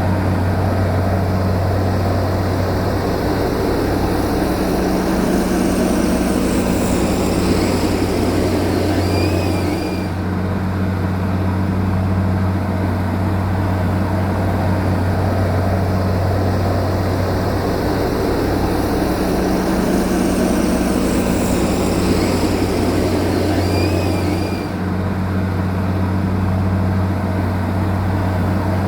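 Heavy earth-moving machine's engine running steadily: a continuous low drone with a strong hum, dipping briefly twice.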